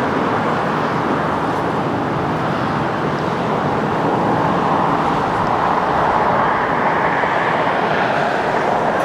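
Jet engine noise from a Boeing 777-300ER's GE90 turbofans: a loud, steady rush, with a higher tone that slowly rises in pitch over the second half.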